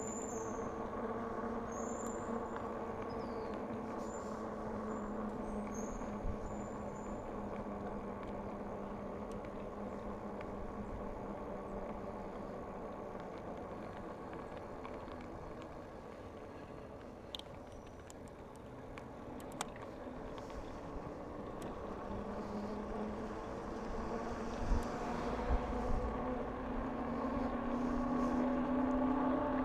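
A bike in motion makes a steady hum with a few faint clicks. The hum dips slightly midway and then rises in pitch and loudness over the last several seconds.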